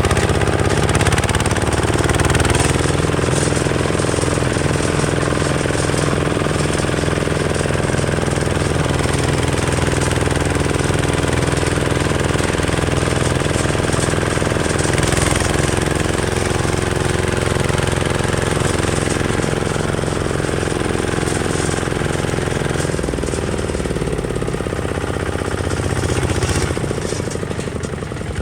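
Kubota ZT 155 DI single-cylinder diesel engine running steadily. About 23 seconds in its sound turns duller, and near the end it drops slightly in level.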